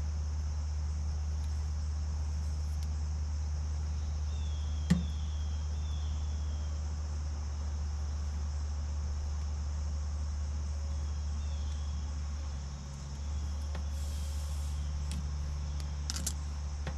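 A steady low machine hum, with one sharp click about five seconds in and a brief dip in the hum a little before two-thirds of the way through.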